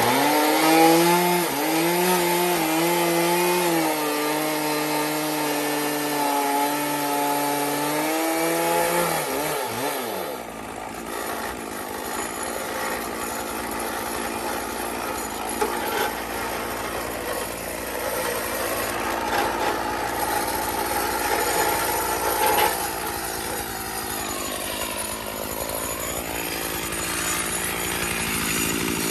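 Stihl MS461 two-stroke chainsaw on an Alaskan mill revving up and running at high throttle. About ten seconds in its steady note turns into a rougher, noisier sound as the chain works through the cedar log.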